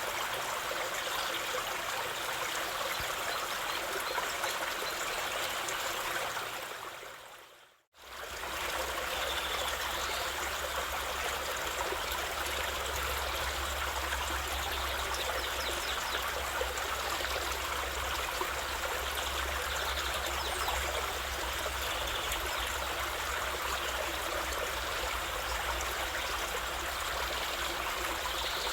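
Running stream water, a steady trickling rush. About eight seconds in it fades briefly to silence and comes back with a low rumble underneath.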